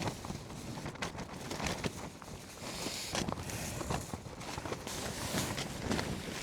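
Rustling and handling of a lightweight down quilt's nylon fabric as it is pulled out of its stuff sack and shaken out, with wind noise on the microphone underneath.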